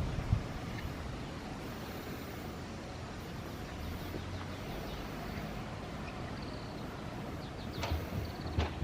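Low rumble cutting off just after the start, then steady outdoor background hiss with faint repeated bird chirps coming in toward the end, and two sharp knocks close together near the end.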